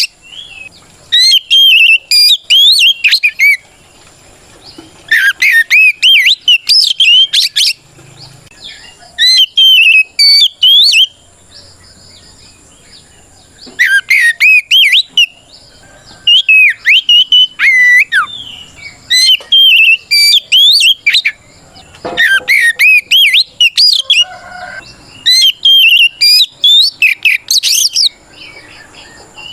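Oriental magpie-robin singing a loud, varied song of rapid gliding whistles in bursts of a few seconds with short pauses between them. It is the full 'ngeplong' fighting song that calls out rival males.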